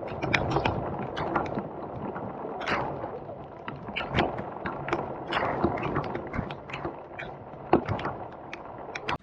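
Heavy rain falling on an open fishing boat, with dense, irregular ticks of raindrops striking close by over a steady hiss of rainfall.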